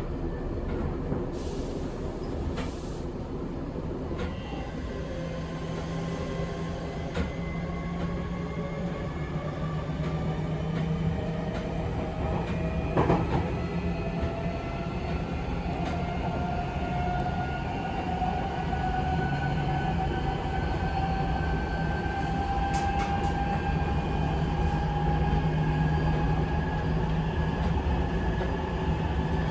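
Running sound inside a Seibu 6000 series train with Mitsubishi SiC-VVVF traction equipment: the motors' whine climbs slowly in pitch as the train gains speed, over a steady rumble of wheels on rail. A few brief knocks from the track, the clearest about halfway through.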